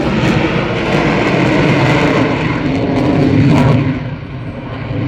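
Airplane engine noise, loud and rushing, dipping for a moment near the end before coming back up.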